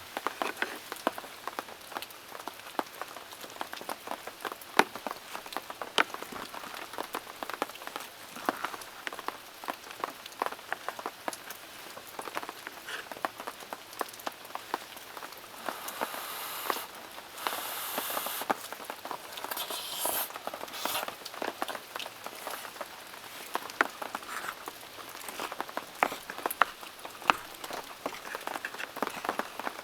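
Heavy rain falling steadily, with many sharp, irregular drop hits close by over the constant patter. A brighter hiss rises for a few seconds past the middle.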